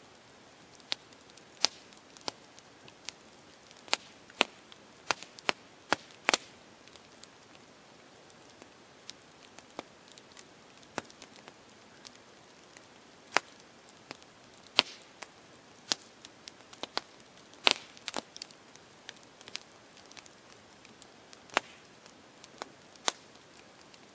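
Campfire crackling: irregular sharp pops and snaps of burning wood, some in quick clusters, over a faint steady hiss.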